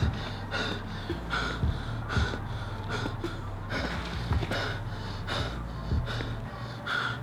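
A person breathing fast and hard, about two breaths a second, over a low steady hum.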